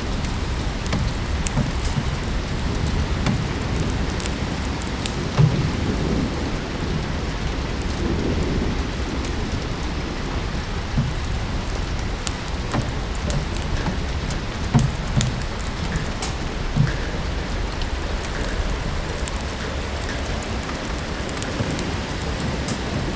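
Steady rain together with a wood fire crackling: many small sharp crackles and a few louder pops about five seconds in and twice near the middle, over a continuous low rumble.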